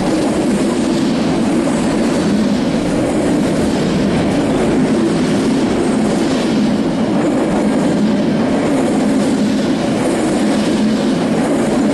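Train rolling past at steady speed, its wagons' wheels clicking and rumbling over the rails in a continuous loud run.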